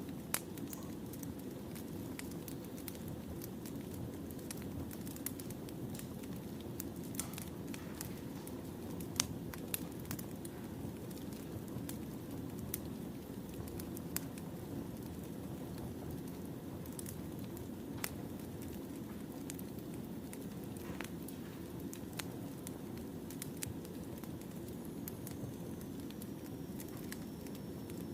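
Wood fire burning: a steady low rush of flames with irregular sharp crackles and pops from the burning logs.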